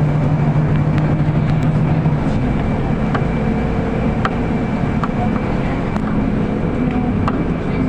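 Interior of a city bus on the move: steady engine and road noise, the engine's low note dropping away about two seconds in, with scattered light rattles and clicks from the cabin.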